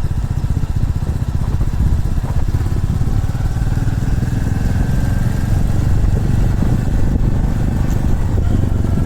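Single-cylinder motorcycle engine running steadily, a dense low pulsing throb.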